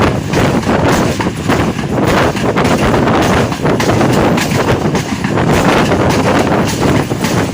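A passenger train in motion heard from on board: a loud, continuous rattle and clatter of wheels on the track, with wind buffeting the microphone.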